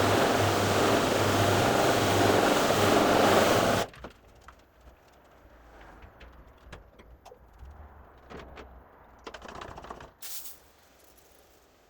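Carpet-cleaning vacuum machine running loud and steady with a low hum, then switched off about four seconds in. Faint clicks, knocks and rattles follow, with one short hiss near the end.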